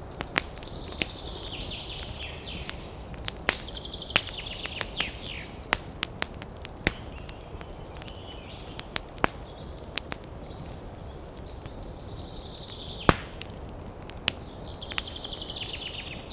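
Campfire crackling, with irregular sharp pops and snaps of burning wood, one much louder than the rest about thirteen seconds in. A bird calls in short rapid trills four times over a steady low rustle of wind.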